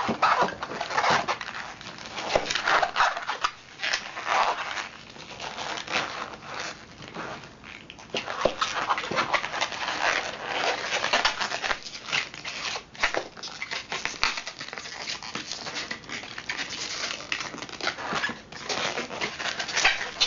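Inflated 260Q latex twisting balloon rubbing and squeaking in the hands as it is twisted into small pinch twists, in irregular strokes that come and go.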